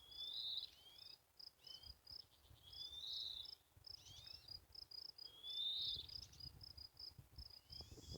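An insect, likely a cricket, chirping in a steady, even series of short high pulses, about four a second. Over it, a small bird gives repeated short, thin calls that sweep in pitch, several times.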